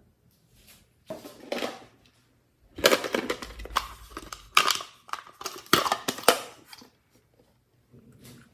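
Hands squishing and kneading slime, in irregular bursts with sharp clicking pops.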